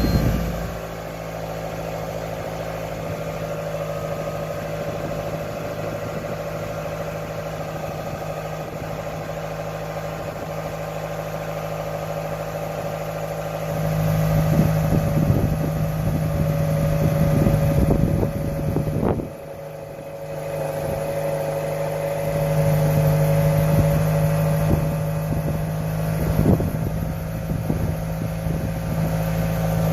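Toyota Alphard's 2.4 L four-cylinder idling steadily through a Kakimoto Kai GTbox aftermarket rear muffler after a start-up. The pitch holds steady while the loudness rises and falls a few times, louder from about halfway with a short dip.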